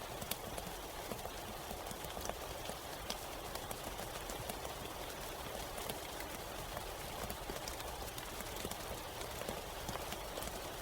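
Steady rain in a forest, a continuous hiss with a dense patter of individual drops ticking on surfaces.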